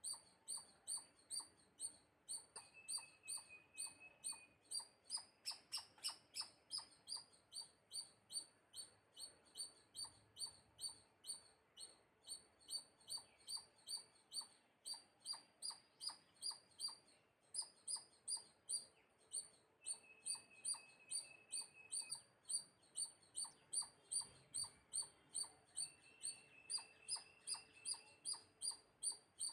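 A bird chirping steadily in a fast, even series of short high chirps, about two to three a second, with a thin held note breaking in a few times.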